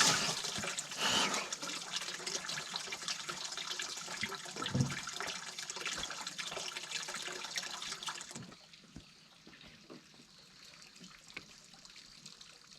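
Water running and splashing, dropping suddenly to a much fainter trickle about eight seconds in.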